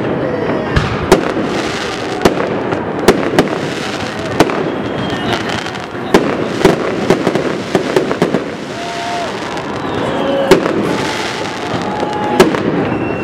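Fireworks display: about a dozen sharp bangs of shells bursting overhead at irregular intervals, over a continuous dense crackle that swells now and then.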